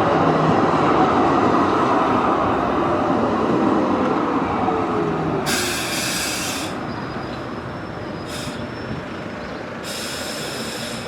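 Sheffield Supertram Siemens-Duewag tram running on the rails, loud at first and slowly fading, with a falling whine a few seconds in. Three short, high hissing bursts come in the second half.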